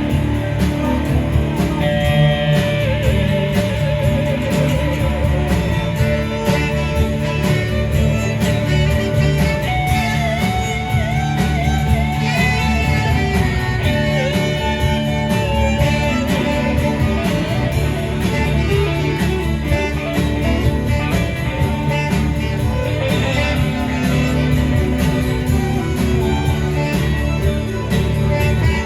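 Live band music: an instrumental stretch led by guitar over a full band, with wavering sustained lead notes in the middle.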